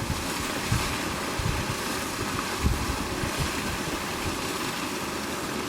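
Steady rushing noise of wind on the microphone, with irregular low buffeting gusts.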